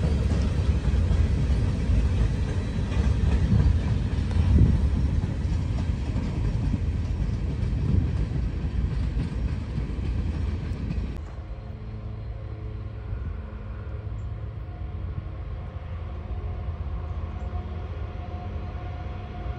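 Freight train of hopper cars rolling past, wheels rumbling and clattering on the rails. About 11 seconds in, it cuts to a quieter, steady hum from Norfolk Southern diesel locomotives approaching from a distance.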